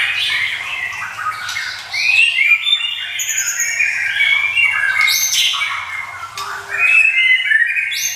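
White-rumped shama (murai batu) singing loudly: a continuous, varied song of quick rising and falling whistles mixed with harsher chattering phrases.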